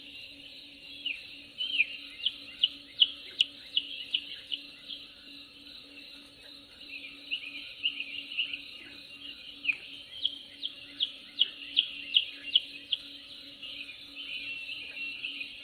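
Songbirds chirping, with quick runs of short, sharp downward-sweeping notes that come thickest a second or two in and again about ten seconds in, over a steady low hum.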